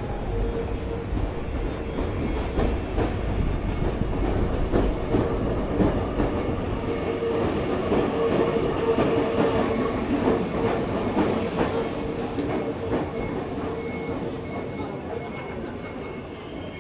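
A train passing close by: a steady hum and rumble with rapid clicking of wheels over the rails, fading away over the last few seconds.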